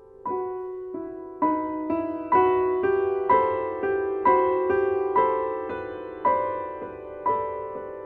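Solo piano music: single notes and chords struck at a slow, even pace, each ringing and fading before the next.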